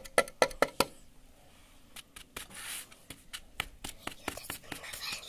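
Sharp plastic clicks and knocks from handling the opened dust container of a hand vacuum cleaner, several in quick succession near the start, then scattered ones with a short rustle. The motor is not running.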